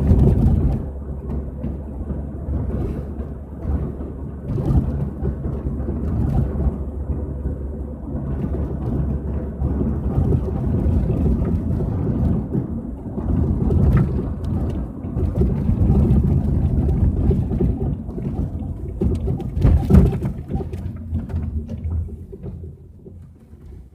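Peugeot 406 on the move with a steady low rumble, struck through by occasional sharp thuds, the loudest near the middle and toward the end: the knock from the rear of the car. The rumble dies away near the end.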